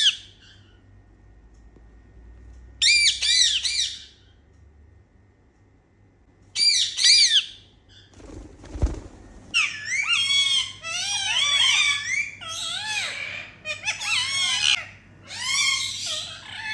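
Indian ringneck parakeets calling: two short bursts of shrill, rapidly repeated squawks about three and seven seconds in, then a longer run of chattering calls rising and falling in pitch from about ten seconds on. A low thud comes just before the chatter starts.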